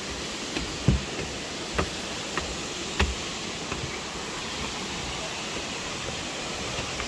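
Steady rushing of a waterfall, with four short, sharp knocks in the first three seconds or so, the loudest about three seconds in.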